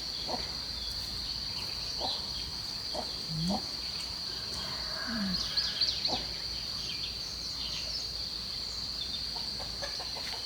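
Steady high-pitched insect drone, with a few short low clucks from poultry and a brief burst of bird chirps near the middle.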